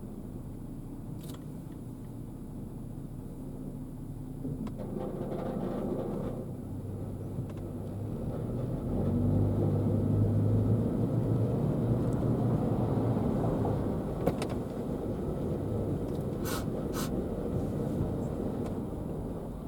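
Car on the move: a steady low engine and road rumble that swells louder about nine seconds in and eases off again, with a few sharp clicks.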